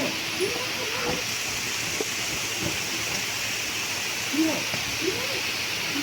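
Steady hiss of rain falling. A few brief, low voice-like sounds rise and fall over it near the start and again about four and five seconds in.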